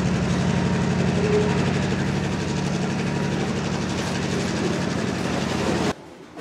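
Diesel freight locomotives running and covered hopper cars rolling past on the rails: a loud, steady engine drone under rolling noise. It cuts off abruptly near the end, dropping to a much quieter background.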